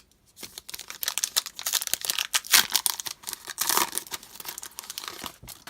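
A foil trading-card pack being torn open and its wrapper crinkled, a dense run of crackling that fades out just before the end.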